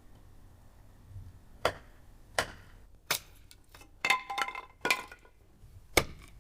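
Thin, dry firewood being chopped and handled: about six sharp knocks of the blade or sticks, with a short clattering run of wooden pieces clinking against each other about four seconds in.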